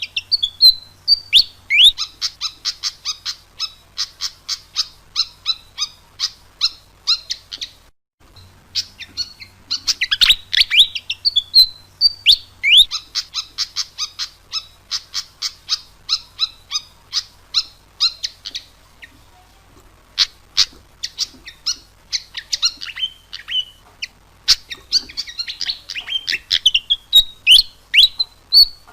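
Fantail (burung kipasan) singing: long runs of quick, sharp chirping notes, several a second, broken by short pauses, with a stretch of scattered single notes partway through.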